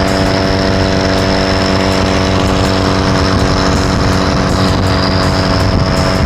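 Nissan 240SX's turbocharged KA24DET 2.4-litre four-cylinder running at steady revs while cruising, its pitch holding level throughout.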